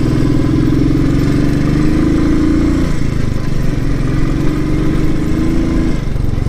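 Royal Enfield Thunderbird 350's single-cylinder engine running as the bike is ridden at a steady road speed, its pitch lifting slightly and dropping back twice.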